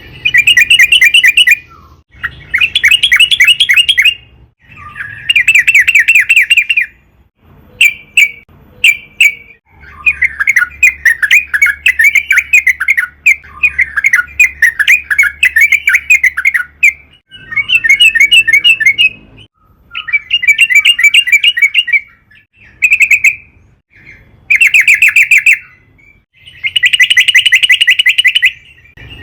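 Yellow-vented bulbul (trucukan) singing loudly in repeated bursts of rapid, bubbling chatter, each phrase one to two seconds long with short pauses between, and a few short single calls around the middle.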